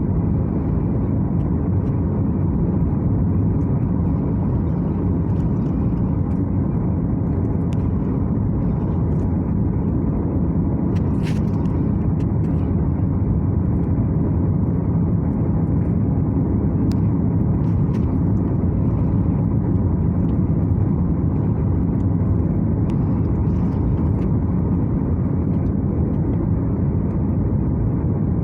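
Steady cabin noise inside a Boeing 737-800 in flight: an even, low rumble of its CFM56 turbofan engines and the airflow over the fuselage.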